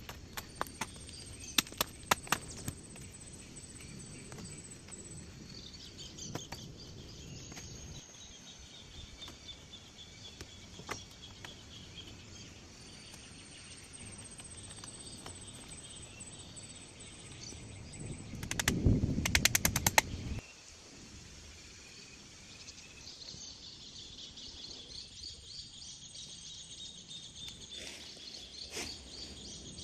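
Forest ambience with steady insect and bird calls, broken by a few sharp knocks near the start and a loud burst of rapid clicking and rattling lasting about two seconds later on.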